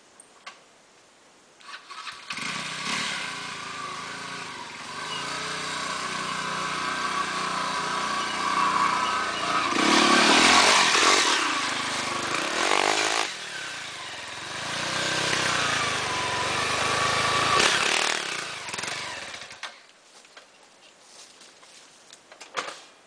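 Off-road trail motorcycle engine revving hard, its pitch rising and falling with the throttle, loudest about halfway through. It then cuts off suddenly a few seconds before the end.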